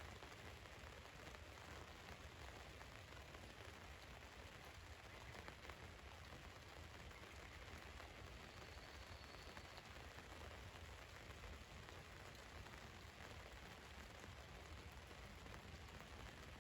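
Rain falling steadily on a van's roof, heard faintly as an even hiss with a few single drop ticks.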